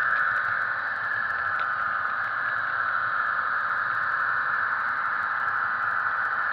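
HO-scale model diesel locomotive's Soundtraxx Tsunami sound decoder playing the running diesel engine through its tiny speaker: a steady, hissy drone with little bass, blended with the model train's rolling noise.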